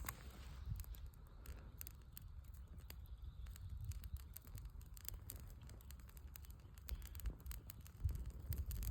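Bonfire being lit, with the kindling starting to crackle: scattered sharp clicks and pops over a low rumble.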